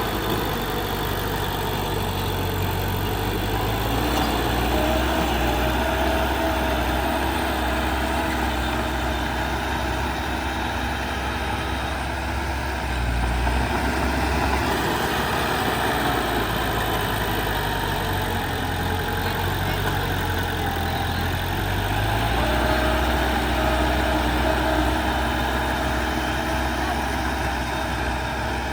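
Heavy earthmoving machine's diesel engine running steadily, its pitch and loudness rising and falling a little with load a few times.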